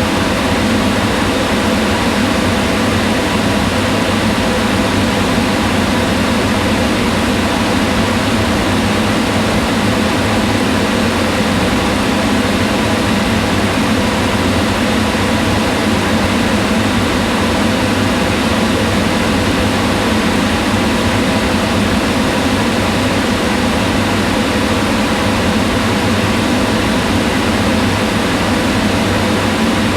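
Kitchen range hood exhaust fan running steadily: an even hum of rushing air, strongest in the low-middle range, with faint steady tones from the fan motor.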